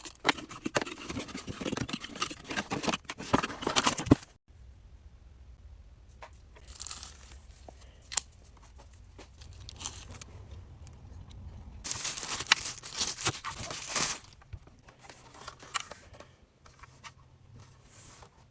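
Plastic and cardboard packaging being crinkled and torn open by hand, in loud bursts at the start and again about two-thirds of the way through, with small handling clicks and knocks in between.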